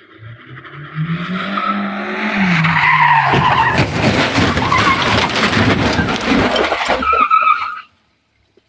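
A car engine rising in pitch and then easing off. From about three seconds in comes a long, loud stretch of skidding tyres mixed with many sharp knocks and rattles, which cuts off suddenly near the end.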